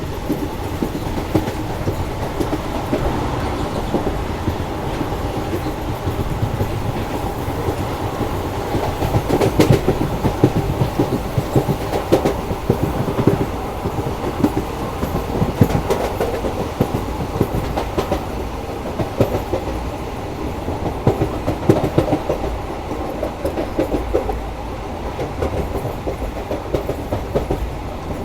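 The 11029 Koyna Express passenger train running along the track, its wheels clattering over rail joints with an irregular clickety-clack over a steady rumble. The clatter is heaviest in the middle stretch.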